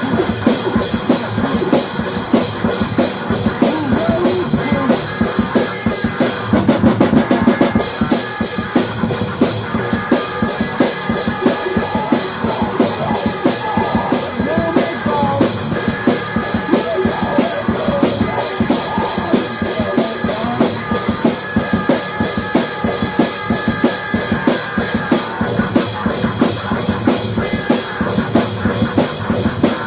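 Rock music played on a drum kit, with bass drum and snare keeping a steady beat under sustained instrument tones.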